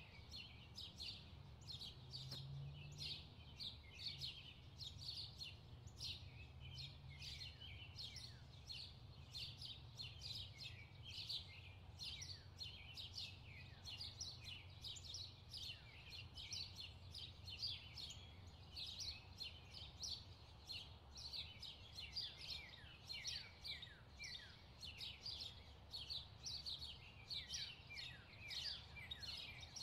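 Small birds chirping: many short, falling chirps overlapping continuously, over a faint steady low hum.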